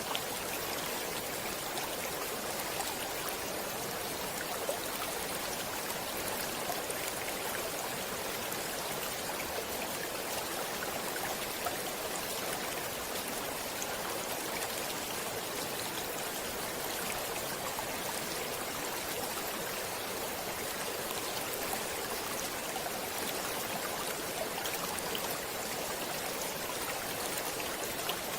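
A stream of water flowing steadily over rocks, an even rushing hiss with fine splashing and no change in level.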